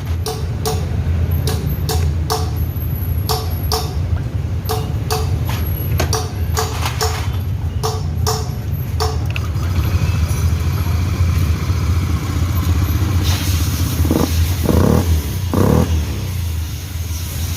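Honda Beat FI scooter engine running with its freshly rebuilt CVT and final-drive gearbox, tested to hear whether the whine is gone. A steady low engine note, with a string of short sharp clicks in the first half and a rise in hiss and higher-pitched noise from about two thirds through.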